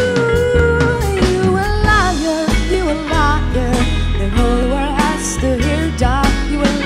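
Live band playing an instrumental passage: a lead melody of sliding, bending notes over drums and double bass.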